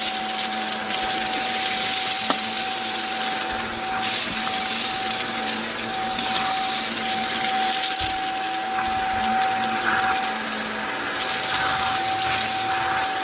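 Shark Navigator upright vacuum cleaner running with its brushroll on: a steady motor whine over a rushing hiss of air, with one faint click about two seconds in.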